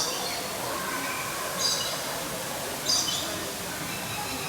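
A bird calling in short, high-pitched bursts, three times about a second and a half apart, over steady background noise.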